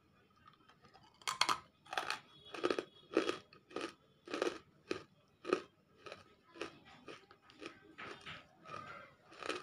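Crunchy biting and chewing of a half-roasted chunk of nakumatt, a baked clay: a run of about sixteen sharp crunches, a little under two a second, starting about a second in and growing somewhat softer in the second half.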